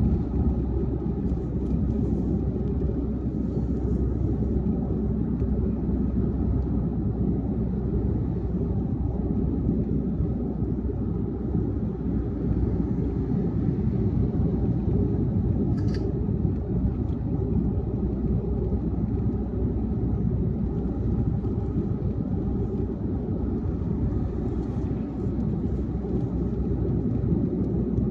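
Car driving at highway speed: steady road and tyre noise with engine drone, mostly a low rumble. A single short click sounds about halfway through.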